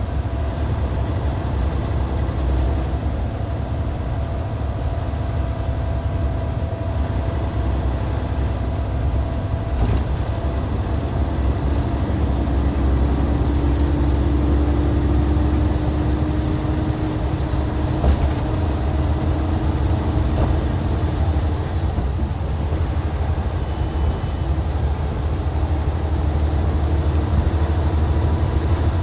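Hyundai D6CC Powertec 380 inline-six diesel of a Hyundai Universe Comfort bus running under way, a steady deep drone whose pitch climbs slowly from about halfway and eases off again near the end.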